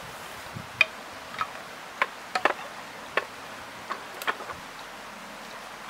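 A few light, irregular clicks and taps, about ten in all, over a steady faint hiss.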